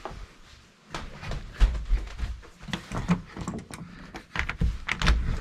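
A series of irregular knocks, clicks and low thumps, as of things being handled or moved about.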